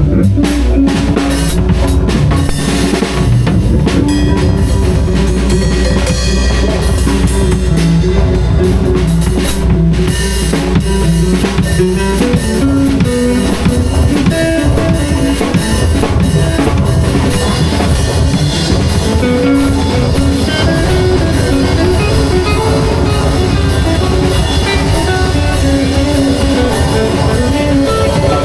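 Live improvised band jam: a drum kit playing a busy beat with kick drum and snare, over held and shifting notes from bass and guitar.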